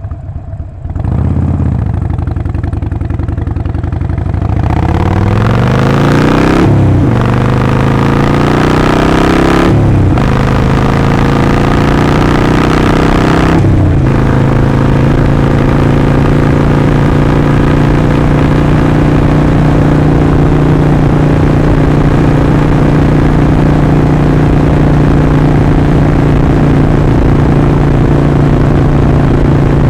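Harley-Davidson Sportster Forty-Eight's air-cooled 1200 V-twin pulling away from low revs and accelerating, with three short breaks in the exhaust note as it shifts up through the gears, then running at a steady cruising speed for the second half.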